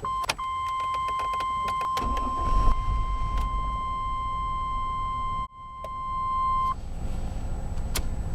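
A steady electronic warning tone from the dash sounds while the 1999 GMC Yukon's 5.7-litre V8 is cranked. The engine catches about two seconds in and settles into a quiet low idle; the tone stops near the end.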